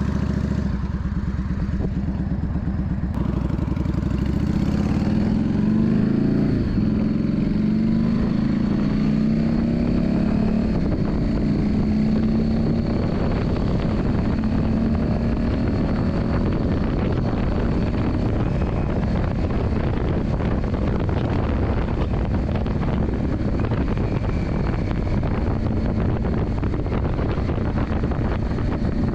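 Yamaha Drag Star 400's V-twin engine idles steadily for a few seconds, then its pitch climbs over several seconds as it accelerates, and it runs on steadily with a rougher note.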